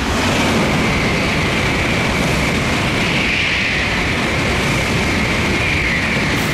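Tokaido Shinkansen bullet train passing through a station at high speed: a loud, steady rush of air and wheel noise with a high whine over it, starting suddenly and easing off near the end.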